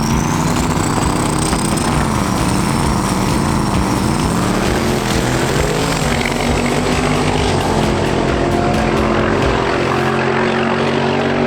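Drag race car engines running, their pitch wavering up and down, with a thin high whine that rises over the first second or so.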